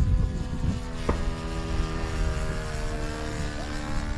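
Radio-controlled model airplane's engine running in flight, a steady drone whose pitch eases down in the second half as the plane passes. A single sharp click about a second in.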